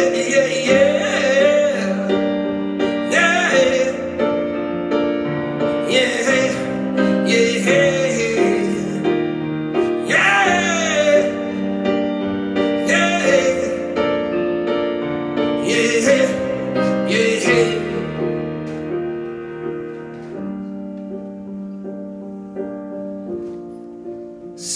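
Live band music: sustained piano and keyboard chords under wordless sung vocal phrases. The music gets quieter over the last several seconds.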